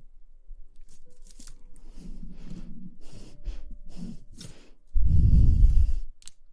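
Close-miked ASMR rustling and scratching on the microphone, a run of short brushing strokes, then a loud low rumble lasting about a second, about five seconds in.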